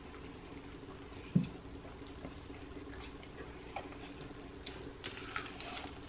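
Close-up mouth sounds of someone eating fried chicken wings: faint wet chewing and lip smacks, with small crackles of crispy coating as the wing is bitten again near the end. A short low thud about a second and a half in.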